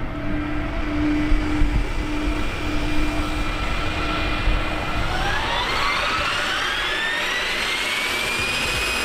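Turbine engines of a giant-scale RC model jet running with a steady whine, then spooling up about five seconds in, the whine climbing in pitch for a few seconds and holding high. A low rumble of wind on the microphone runs underneath.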